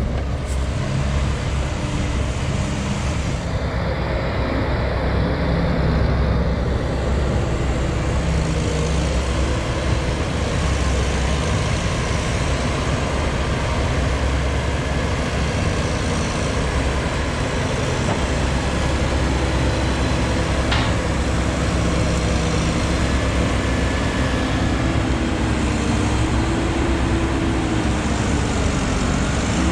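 Heavy diesel machinery running steadily under load, its engine note wavering up and down in the last few seconds.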